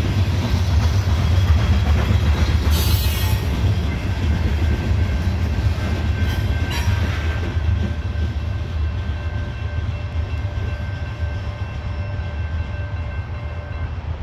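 Coal train hopper cars rolling past with a loud low rumble that slowly fades as the end of the train goes by, with two brief high hissing squeals at about 3 and 7 seconds. In the second half, a steady high ringing tone carries on under the fading rumble and stops near the end.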